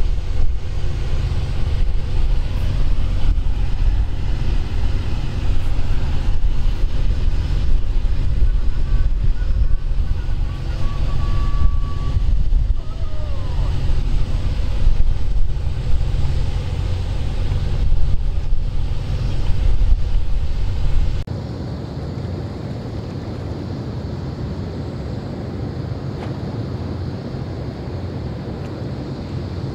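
Wind buffeting the microphone over the steady noise of a large patrol ship moving off through the water, with a brief thin tone near the middle. About two-thirds through, the heavy rumble drops away abruptly, leaving a steadier, quieter hiss.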